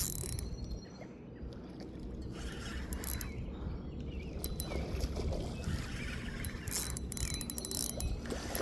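Fishing reel being cranked as a hooked fish is reeled in, its gears whirring and rattling in short spells.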